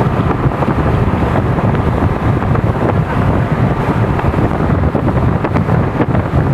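Wind buffeting the microphone in a steady, loud low rumble.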